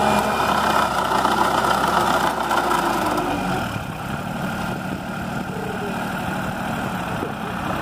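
Sonalika DI-20 mini tractor's diesel engine running steadily, getting a little quieter about three and a half seconds in.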